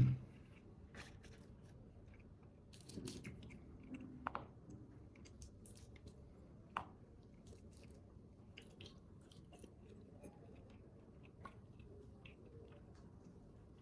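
A person chewing a mouthful of rice wrapped in seaweed, faint, with scattered small crunches and mouth clicks.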